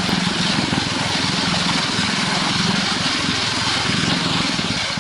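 Engine of heavy road-construction machinery running steadily, with a dense, even engine pulse and a continuous rumble.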